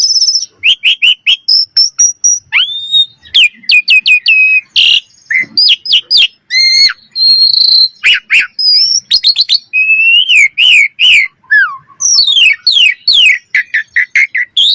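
Common myna singing: a fast, varied string of whistled notes that slide up and down in pitch, mixed with sharp clicks and chattering.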